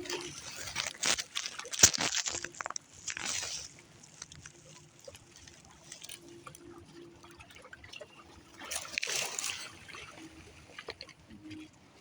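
Water lapping and sloshing at the edge of an inlet where river meets ocean. Splashes with sharp little slaps come through the first few seconds, and another swell splashes in around nine seconds, with quieter trickling between.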